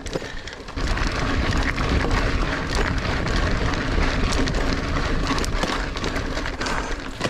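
Niner Air 9 RDO 29er mountain bike riding over rooty dirt singletrack: tyre noise with many small clicks and rattles from the bike. A low wind rumble on the microphone comes in about a second in.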